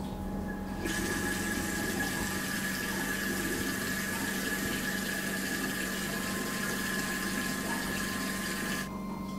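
Water running hard, as from a restroom tap, switching on about a second in and cutting off sharply near the end, with a faint steady whistle in it. A steady low hum lies underneath.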